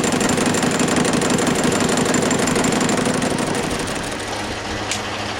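Metal lathe taking an interrupted cut: the cutting tool strikes the work in a fast run of knocks over the steady hum of the running lathe, easing off near the end.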